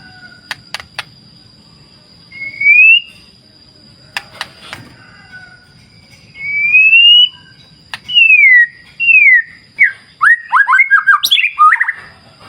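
A songbird singing clear whistled notes: slow rising and falling whistles, then a quick run of short, sharp notes near the end. A steady high tone and a few sharp clicks sit underneath.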